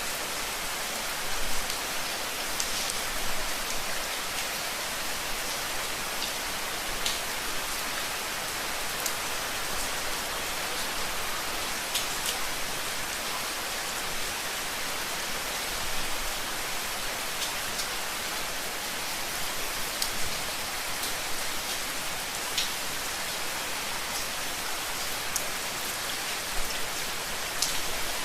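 Steady rain falling, an even hiss with individual drops tapping sharply here and there.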